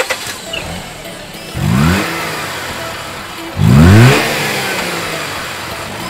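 Mazda RX-8's Renesis two-rotor rotary engine, just started, revved twice about two seconds apart, the second rev louder. It then settles back to a steady run.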